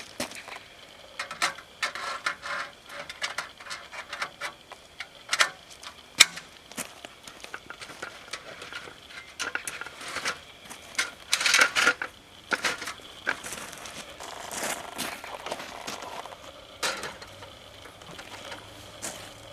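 Irregular clicks, knocks and light clinks, with a denser rustling, clattering stretch about eleven seconds in.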